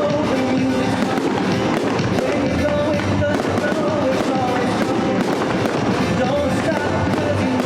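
A fireworks show: bursts and crackling going off over loud music with singing.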